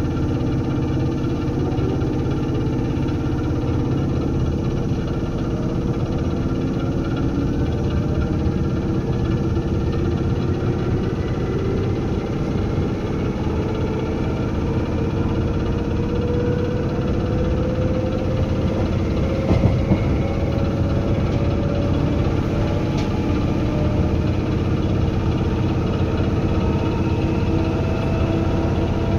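Running sound inside a Seibu 2000 series electric train: a steady rumble with whining tones from the traction motors and gears, rising slowly in pitch as the train gains speed. There is a brief knock about two-thirds of the way through.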